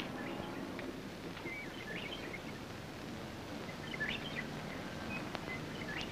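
Birds chirping in short, scattered calls over a steady background hiss, with a faint click about five seconds in.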